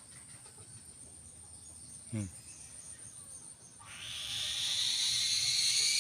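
A loud, high buzzing of insects sets in about four seconds in, swells, and cuts off suddenly. Before it, about two seconds in, a brief low sound falls in pitch.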